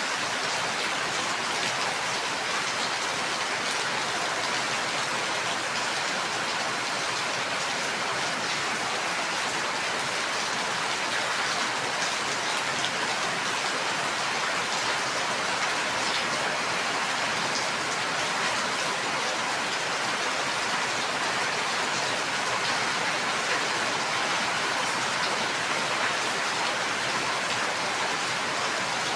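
Steady rain falling, an even hiss with fine drop patter and no break or change.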